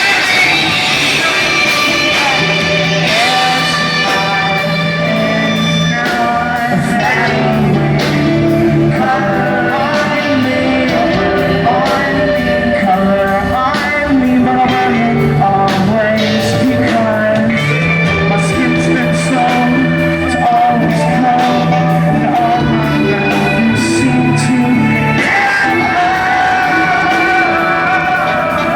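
Live rock band playing: electric guitars, bass and drums with sung and shouted vocals, heard in a large hall.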